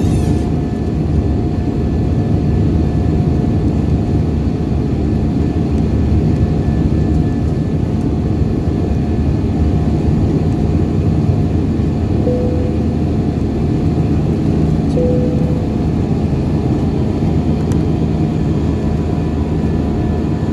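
Steady cabin drone of an Airbus A320 in flight: jet engine and airflow noise heard from inside the passenger cabin, with a low steady hum. Two brief faint tones sound about twelve and fifteen seconds in.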